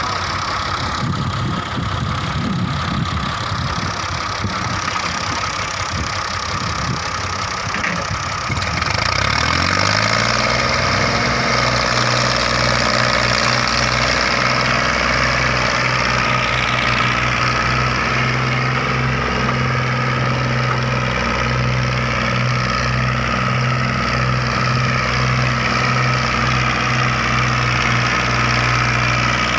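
Tractor diesel engine running. It rumbles unevenly at first, then rises in pitch about a third of the way through and holds a steady, higher speed.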